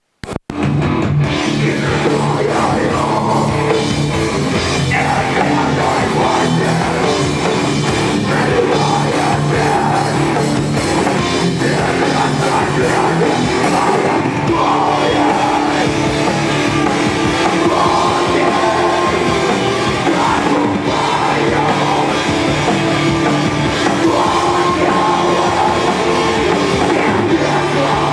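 Rock band playing loud heavy music live, cutting in suddenly out of silence just after the start.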